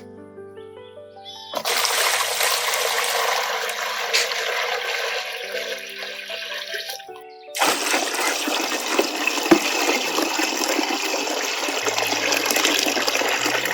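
Water running and splashing in two long stretches, with a short break about halfway through, over background music.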